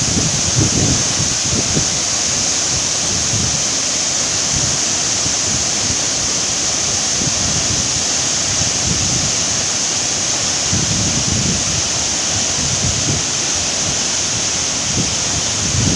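Waterfall rushing steadily, with gusts of wind buffeting the microphone.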